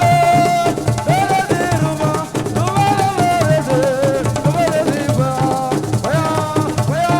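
Assiko band music: a singer's voice carries a gliding melody over a steady, driving drum beat.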